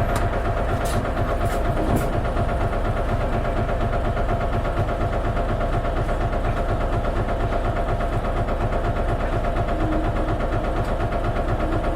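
Isuzu Erga KL-LV280N1 city bus's diesel engine running steadily, heard from inside the cabin, with a constant hum and low rumble. A few faint clicks come in the first two seconds.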